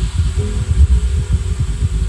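Bass-heavy instrumental music played through two JBL Flip 6 portable Bluetooth speakers: a deep, rapidly pulsing bass line with a few held tones above it and no vocals.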